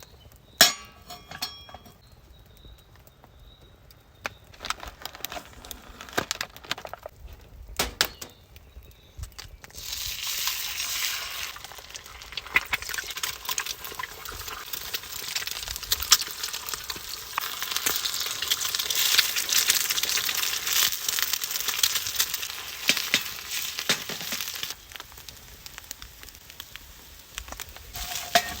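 A few clinks and knocks of utensils on cookware, then food sizzling steadily in a hot frying pan, with scattered crackles through the sizzle.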